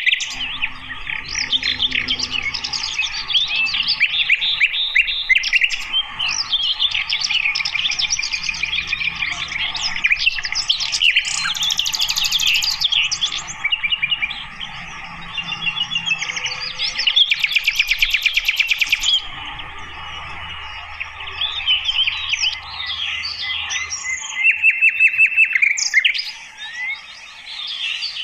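Sikatan londo flycatcher singing a fast, varied twittering song of quick chirps and warbled phrases, broken by rapid ticking trills about twelve and eighteen seconds in.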